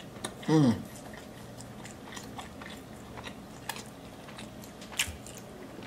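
A man chewing a mouthful of burger close to the microphone: soft, wet mouth clicks and smacks. About half a second in there is a short hummed "mmm" of approval.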